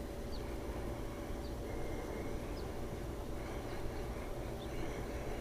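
Quiet outdoor ambience with a low steady rumble, and a small bird chirping faintly about once a second.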